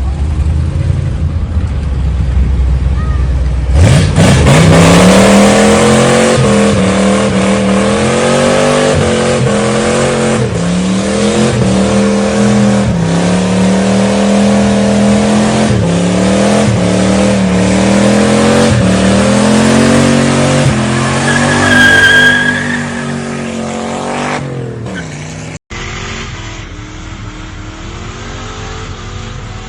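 Car engine idling, then revved hard about four seconds in, its pitch climbing and dropping over and over for some twenty seconds. After a sudden cut near the end it is only a quieter, steady rumble.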